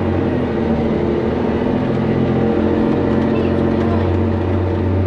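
Articulated dump truck's diesel engine pulling steadily under way, heard from inside the cab, with a change in its note about three to four seconds in.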